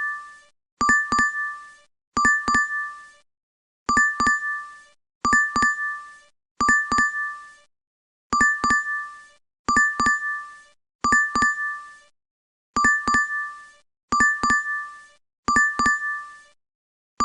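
DoorDash app notification chime, a quick double ping, repeated over and over at intervals of roughly one and a half seconds.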